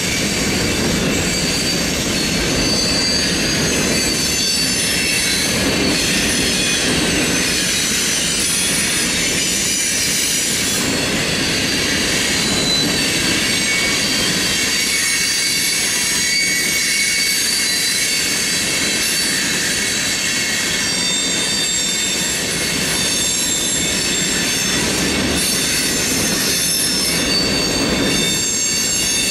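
Freight cars of a manifest train rolling past steadily, the wheels rumbling on the rails with high-pitched squealing tones over the top.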